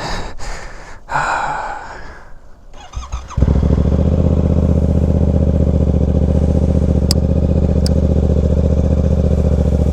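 Motorcycle engine catching about three seconds in and then idling steadily, after a few seconds of handling and rustling noises.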